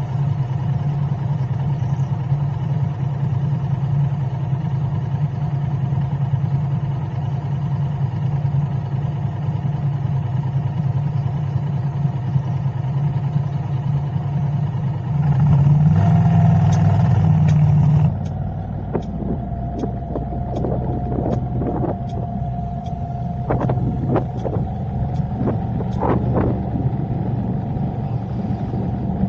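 Car driving in city traffic: steady engine and road noise, which grows louder for a few seconds past the middle and then drops. After that a light regular ticking, about one and a half ticks a second, runs under the engine.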